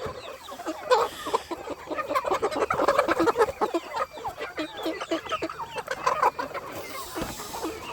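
A flock of chickens clucking, many short calls overlapping, busiest in the first half.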